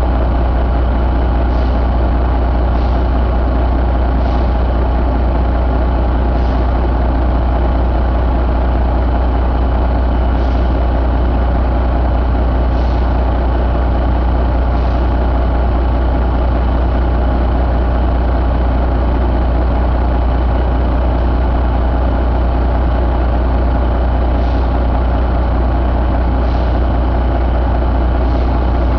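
Detroit Diesel Series 60 12.7-litre inline-six diesel engine idling steadily.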